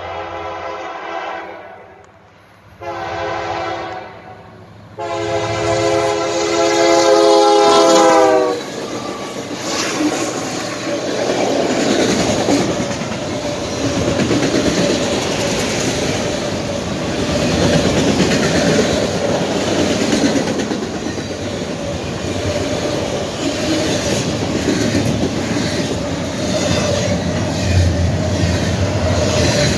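Freight locomotive air horn sounding for a grade crossing: a blast that ends about a second and a half in, a short blast, then a long blast whose pitch drops at its end as the locomotive passes. Then a long freight train rolling by, steel wheels clattering over the rail joints, with a faint steady squeal.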